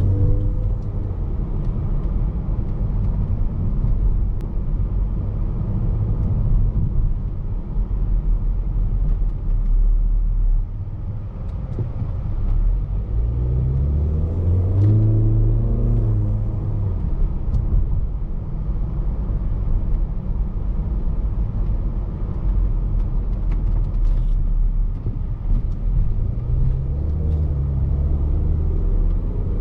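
Range Rover Evoque's 2.0-litre turbocharged four-cylinder petrol engine and tyre rumble while driving in town, heard from inside the car. The engine note rises as the car pulls away about halfway through, and again near the end.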